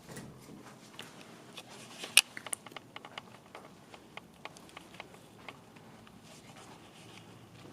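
Scattered light clicks and crackles in an empty room, with a quick cluster about two seconds in that holds one sharp, loud click.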